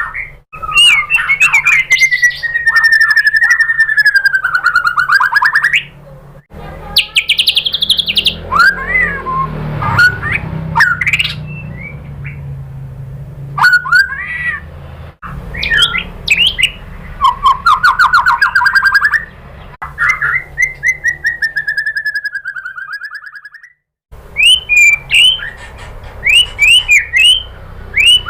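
White-rumped shama song: fast trills, long gliding whistles and quick repeated notes, in spliced stretches that cut off abruptly, with a brief gap of silence near the end.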